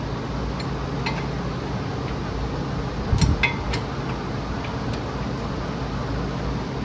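A few sharp metallic clinks about three seconds in, over a steady low hum.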